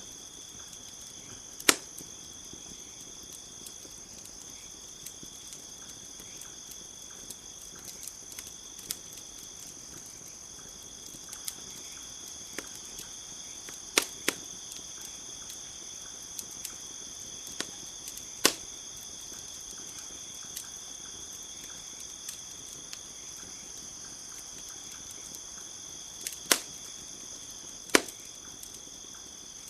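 Campfire crackling, with many small ticks and about six sharp, loud pops at irregular intervals, over a steady high chirring of crickets.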